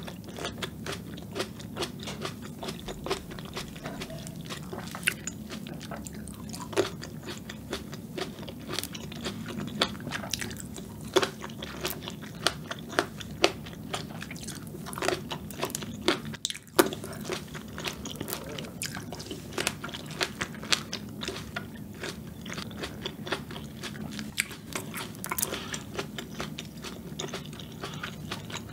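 Close-miked biting and chewing of crisp green grapes: frequent sharp crunches and clicks at an irregular pace, mouthful after mouthful.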